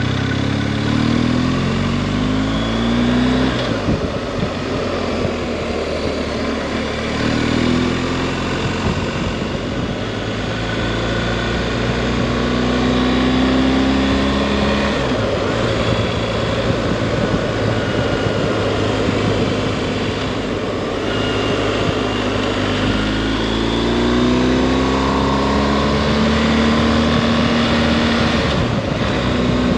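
Adventure motorcycle engine running under way on a dirt road, its pitch climbing three times as it accelerates and settling between, over steady wind and tyre noise.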